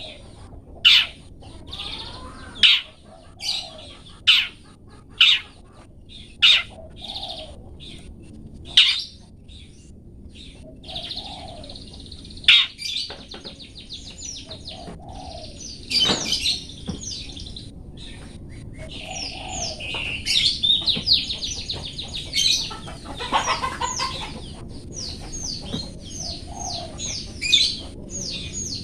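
Long-tailed shrike (cendet) calling: sharp, loud single 'toet' notes repeated about once a second, giving way after about ten seconds to rapid chattering and trilled song phrases.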